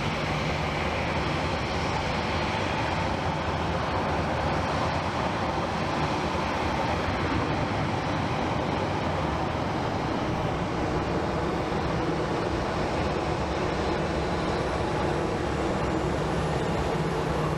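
Jet airliner engines producing a steady, even noise, with a faint high whine rising near the end.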